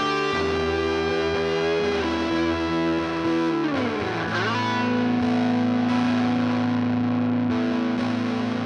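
Gibson Les Paul Studio electric guitar played through distortion: held notes, a downward slide about four seconds in, then a long sustained low note ringing out.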